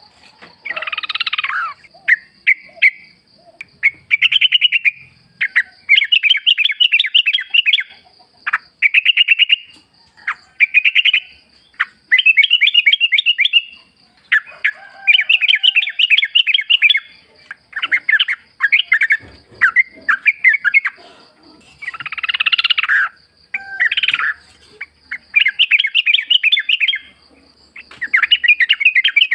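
Yellow-vented bulbul (trucukan) singing: a run of short phrases of rapid chattering notes, one every second or two with brief pauses between them, over a faint steady high-pitched tone.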